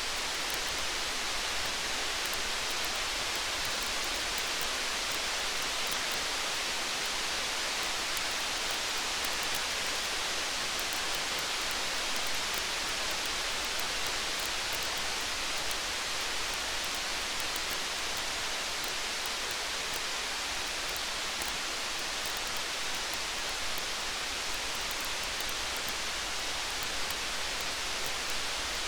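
Steady rain hiss with faint scattered ticks throughout, even and unchanging.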